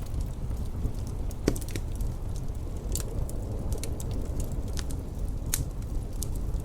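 Wood fire crackling with irregular sharp pops, the loudest about a second and a half in, over a steady low wind rumble.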